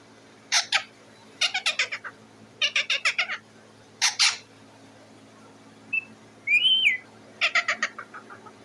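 Parrot calling in bursts of rapid, harsh squawks, five groups of them, with a short whistled note that rises and falls about two-thirds of the way through.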